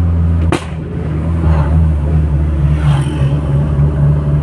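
Turbocharged Audi A3 engine running under way, with a short sharp sound about half a second in as the engine note drops, then pulling steadily again.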